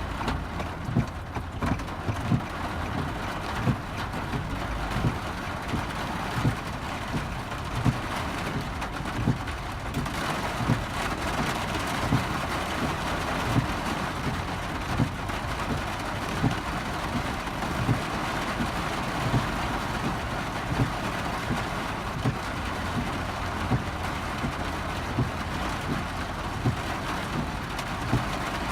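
Heavy downpour drumming on a car's roof and windshield, heard from inside the cabin as a steady dense hiss. Dull low thumps recur about every second and a half.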